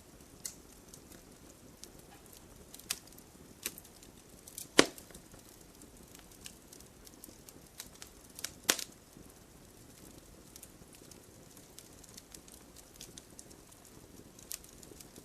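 Wood fire burning in a fireplace, crackling with scattered sharp pops and snaps over a faint steady hiss; the loudest pops come about five and nine seconds in.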